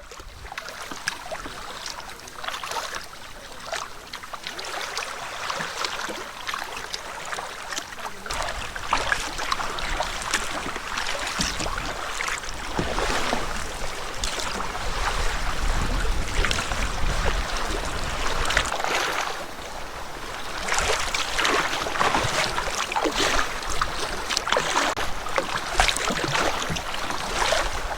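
Choppy lake waves splashing and slapping against a canoe hull as it is paddled, with many short splashes. Wind rumbles on the microphone from about eight seconds in.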